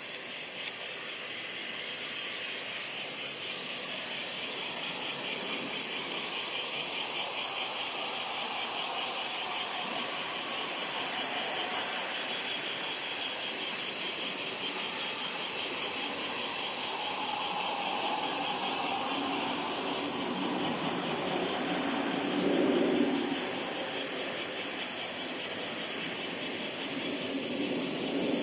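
Cicadas droning steadily at a high pitch with a fast pulsing. Under them, from about two-thirds of the way in, the distant rumble of an Embraer regional jet's engines rises as it climbs away after take-off.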